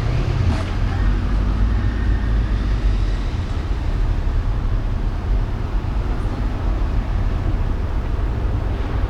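Steady driving and city traffic noise: a continuous low rumble of the car's road and engine noise under an even hiss.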